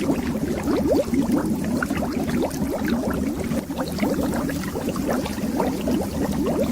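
Underwater bubbles rising in a continuous stream: many short, quick bloops that each rise in pitch, over a steady low rumble.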